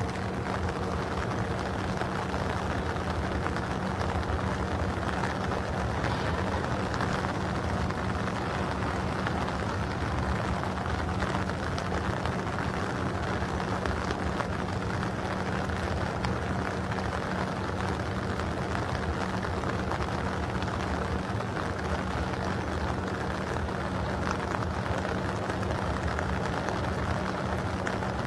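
Steady rain falling, with a constant low engine hum beneath it that does not change throughout.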